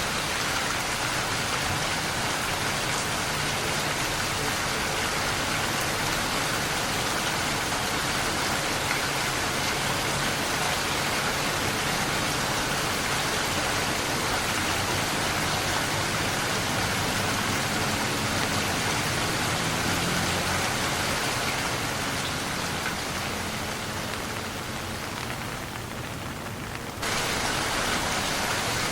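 Steady rain falling, a dense even hiss. Near the end it fades and dulls for a few seconds, then cuts back in at full strength all at once.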